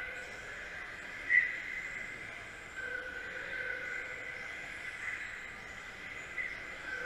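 Radio-controlled model race cars' motors whining as they lap the track, several high whines overlapping and rising and falling in pitch, with one brief loud peak about a second and a half in.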